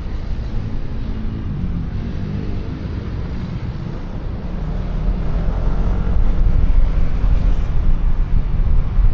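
QJMotor Fortress 160 scooter's engine running under way, with road noise and low wind rumble on a helmet-mounted microphone; it gets louder about halfway through.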